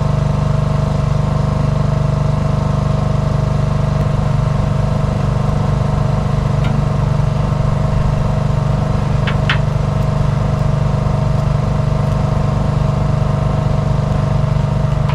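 An engine running steadily at a constant speed, with a couple of brief clicks about nine seconds in.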